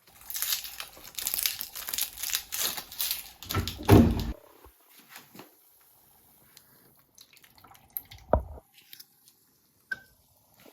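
Water running and splashing into a sink for a few seconds, ending in a loud thump about four seconds in; a sharp knock follows a few seconds later.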